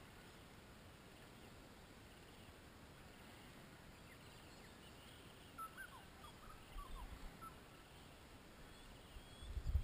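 Faint bird calls over quiet outdoor ambience: a few short chirps and whistled calls about halfway through, then a low rumble building just before the end.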